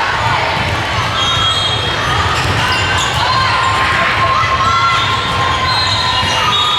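Gym ambience during a volleyball match: many sneakers squeaking on the court floor, with voices of players and spectators in the background.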